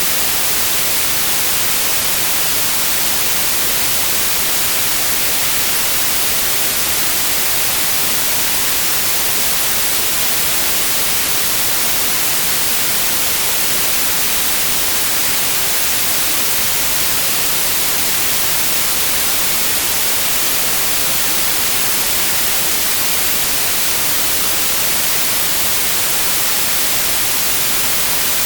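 Steady white noise: an even, unchanging hiss across all pitches, strongest in the highs.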